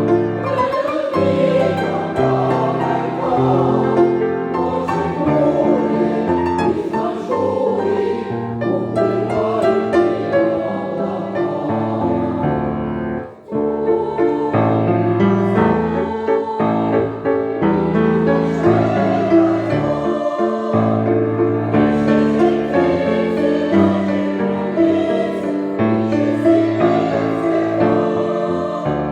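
A choir singing with piano accompaniment, with a brief break in the sound about halfway through.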